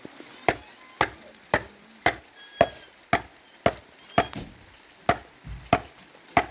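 Sharp chopping blows on wood, evenly paced at about two a second.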